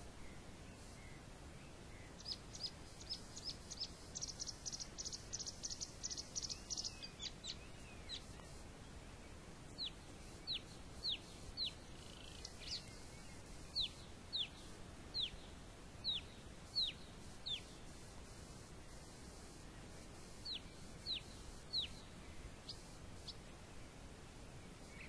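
A small bird calling: a series of short, high chirps, each falling in pitch, repeated every half second or so, with a rapid high trill a few seconds in, over a faint steady outdoor hiss.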